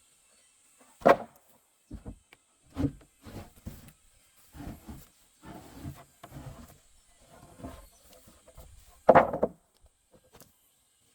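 Irregular knocks and thuds with short scraping sounds between them. The two loudest thuds fall about a second in and near the end.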